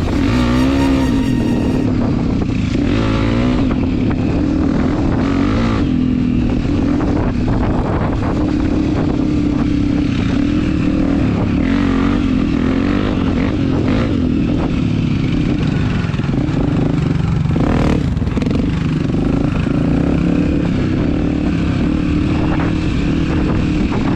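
Dirt bike engine running under way on a trail, its pitch rising and falling steadily as the throttle is worked.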